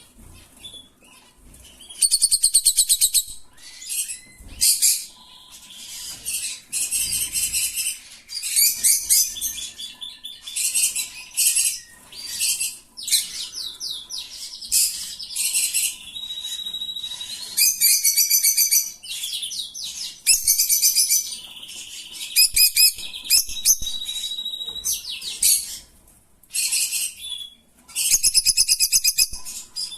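Rosy-faced lovebirds chirping: repeated bursts of rapid, shrill, rasping chirps, each a second or two long with short pauses between.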